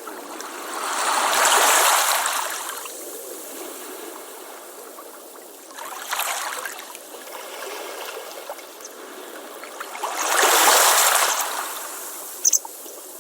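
Ocean waves washing up on a beach, surging three times, loudest about a second and a half in and again about ten seconds in, then draining back to a steady hiss. A brief high chirp sounds near the end.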